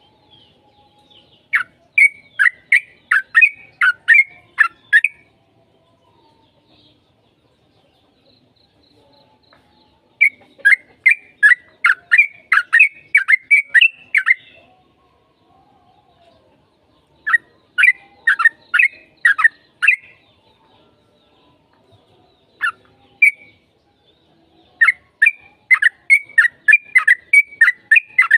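Yellow-vented bulbul singing in four bouts of quick, bubbling notes, each bout lasting about three seconds, with short pauses between them.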